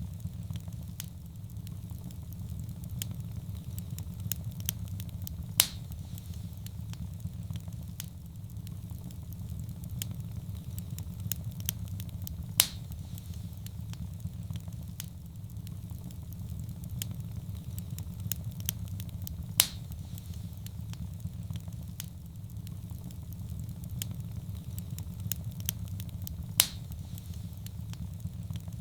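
Wood fire burning in a fireplace: a steady low rumble of flame with constant small crackles, and a louder pop about every seven seconds.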